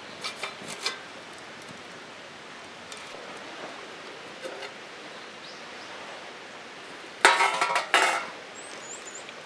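Tableware clinking: a few light clicks in the first second, then a louder clatter of dishes and utensils about seven seconds in, over a steady outdoor hiss.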